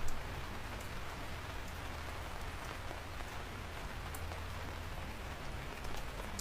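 Rain falling steadily, with a low steady rumble beneath and occasional sharp ticks of single drops striking nearby; the loudest tick comes just as it begins.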